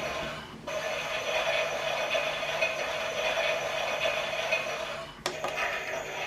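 Toy Miele washing machine running its pretend cycle: a steady, tinny whirring hum. It drops out briefly about half a second in, and again with a click about five seconds in.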